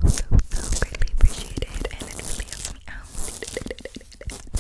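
Wet mouth sounds close to the microphone: a run of small wet clicks and smacks.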